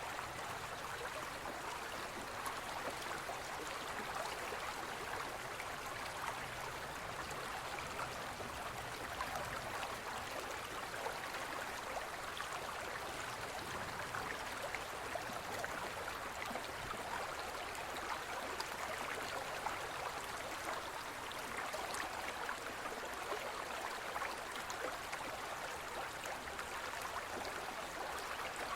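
Gentle forest stream flowing: a steady, even rush of water.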